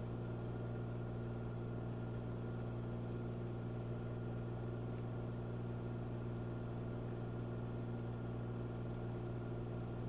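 A Cessna 182's engine and propeller droning steadily in cruise flight.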